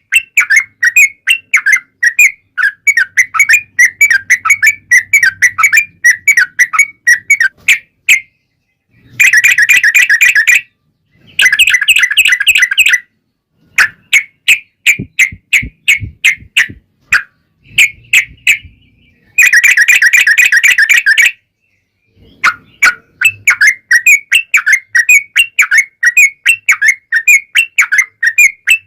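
Yellow-vented bulbul (trucukan) song: fast, loud chattering phrases near 2 kHz, with dense rapid-fire runs ('ropel') about a third of the way in and again about two-thirds in, broken by a few short silences.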